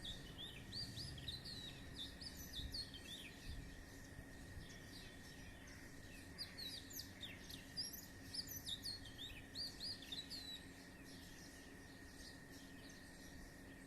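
Many small birds chirping together, a dense run of quick overlapping chirps that thins out about ten seconds in, over a faint steady tone.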